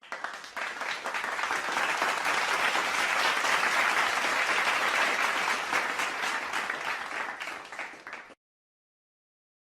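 Crowd applauding: many hands clapping together, swelling up over the first two seconds, holding steady, then thinning and stopping about eight seconds in.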